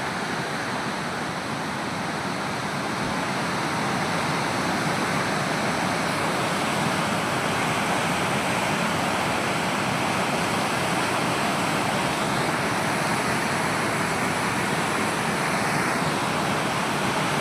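Swollen, flooding river water rushing steadily.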